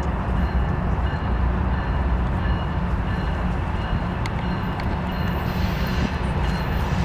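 A train passing close by: a steady, heavy rumble of wheels on rail.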